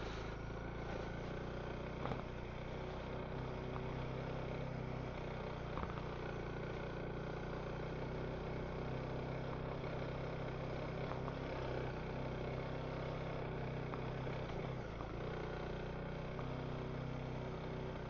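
Honda CRF300L dual-sport motorcycle's single-cylinder engine running steadily while riding a rocky trail, with a couple of light knocks about two and six seconds in.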